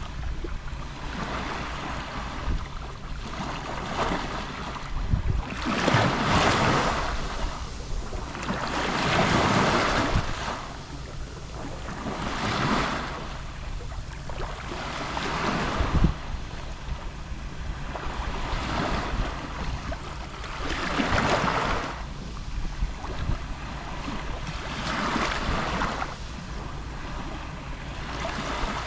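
Gentle sea waves lapping on the shore, each wash swelling and fading about every three to four seconds, over a steady low rumble of wind on the microphone.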